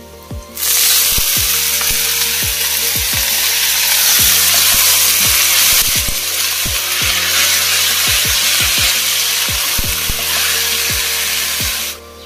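Sliced mushrooms sizzling loudly in hot oil in an iron kadai. The sizzle starts suddenly about half a second in and cuts off abruptly near the end. Background music with a low beat plays throughout.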